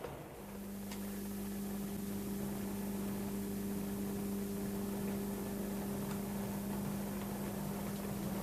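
Sound-fitted OO-gauge Class 35 Hymek model locomotive playing its diesel engine sound: a steady hum that starts about half a second in and holds level.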